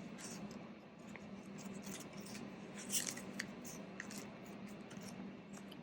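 Paper banknotes and envelopes being handled: a few soft, short rustles, the strongest about three seconds in.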